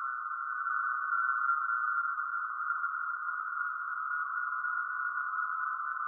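Steady electronic drone made of several close, high tones held together, wavering slightly without any break.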